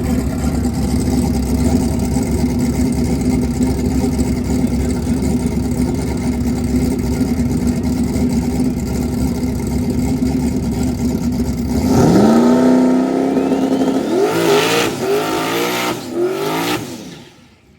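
A car engine running steadily with a low, constant drone. About twelve seconds in, it revs up in a rising sweep, then rises and falls in pitch several more times, as in hard acceleration. It cuts off near the end.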